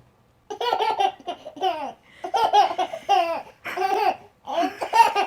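A baby laughing in a run of high-pitched bursts, each falling in pitch.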